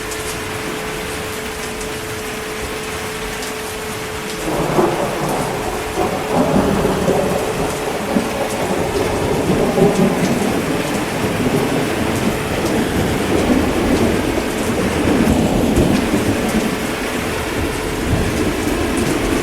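Steady rain, joined about four and a half seconds in by a long, rolling rumble of thunder that keeps going.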